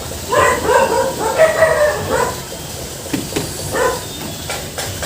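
A dog barking and yelping in a string of short, pitch-bending calls. There are a few sharp knocks in the second half.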